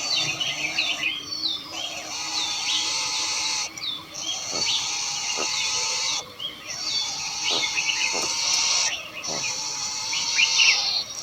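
Wild birds chirping: many short, quick chirps, some falling in pitch, over a steady high hiss that breaks off briefly about every two and a half seconds.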